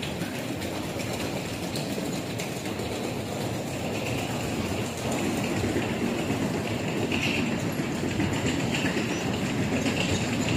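Train running on rails: a steady rumble of wheels on track that slowly grows louder.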